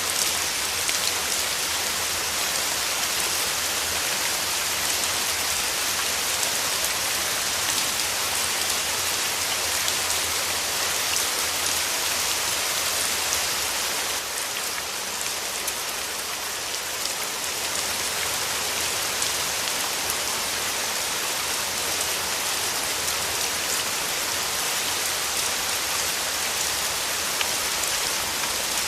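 Steady rain falling, a dense even hiss with individual drops ticking through it; it eases slightly about halfway through, then picks up again.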